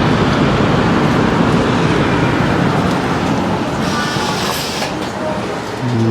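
A train passing close by, a loud rumble with wheel noise that eases after about three seconds, then a brief high squeal about four seconds in.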